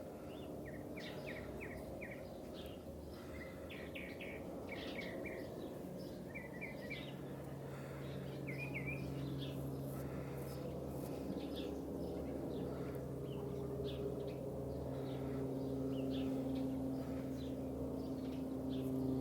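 Distant Airbus A380 jet engines: a low drone with a steady hum that grows gradually louder as the airliner approaches. Small birds chirp over it.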